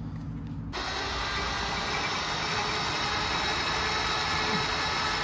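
A low, steady engine hum that changes suddenly about a second in to a louder, brighter, steady mechanical whir with several steady tones in it.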